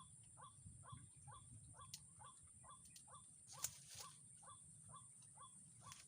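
A white-breasted waterhen calling over and over in a harsh, even series of about two calls a second, faint, over a steady high-pitched insect drone. A sharp click sounds a little past the middle.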